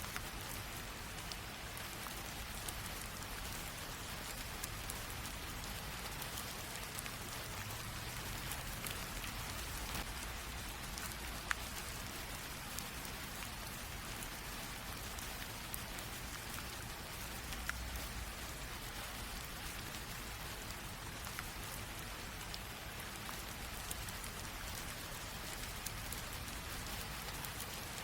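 Light rain drizzle falling steadily, a soft even hiss with scattered individual drops ticking, one slightly sharper drop about halfway through.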